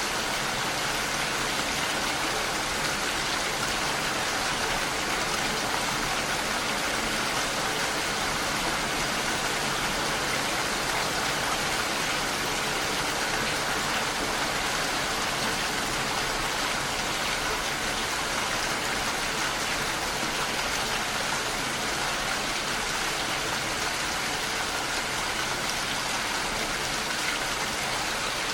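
Heavy rain falling steadily and evenly.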